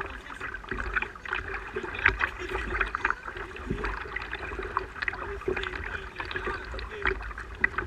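Water splashing and lapping against a kayak's hull in many small, irregular splashes, over a steady low rumble.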